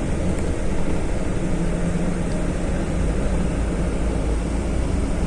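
Steady drone of a moving bus heard from inside the cabin: engine and road noise with a low, even hum.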